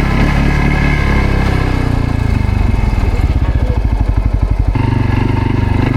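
CFMOTO CForce 600 ATV engine running; about two seconds in the revs drop to a slow, chugging low speed, then pick up again near the end.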